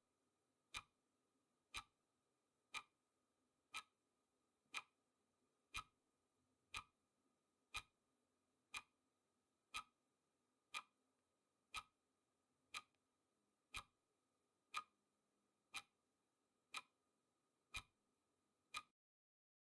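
Clock-style ticking sound effect for a countdown timer: one sharp tick each second, evenly spaced, stopping just before the end.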